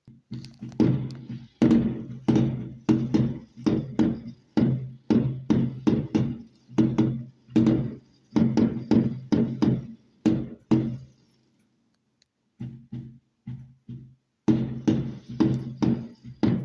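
A firework barrage: a rapid run of sharp bangs, roughly two a second, each with a short ringing tail. It stops briefly about twelve seconds in, then the bangs start again.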